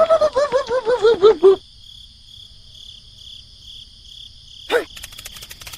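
Steady, high-pitched insect trilling, typical of crickets, with a quick run of about ten short chirping calls, each dipping in pitch and the run falling overall, in the first second and a half, and one more brief call near the end.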